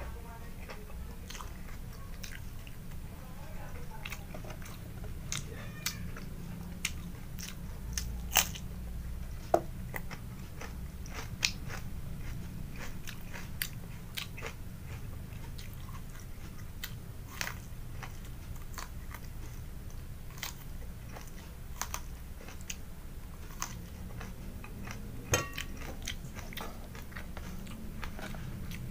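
A person chewing and biting crunchy food close to the microphone, with irregular crisp crunches throughout. Several louder crunches come a few seconds in and one near the end.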